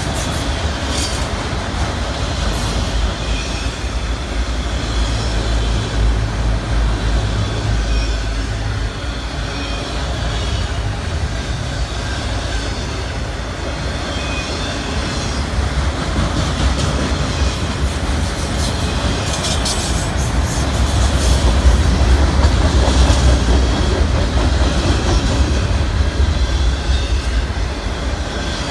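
Autorack freight cars rolling past: a steady low rumble of steel wheels on rail with occasional sharp clicks, growing louder about three-quarters of the way through.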